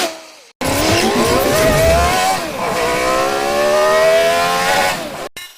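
Car engine revving up with a rising whine, dropping briefly about two and a half seconds in as at a gear change, then climbing again before cutting off suddenly.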